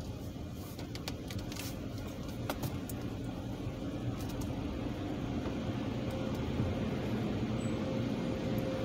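A car's engine running at idle, heard from inside the cabin as a steady low rumble that slowly grows a little louder, with a few light clicks in the first three seconds.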